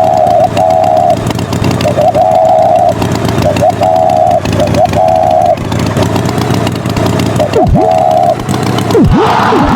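A motor running under a string of short, high tones that repeat about once a second, with a few quick swooping glides in pitch.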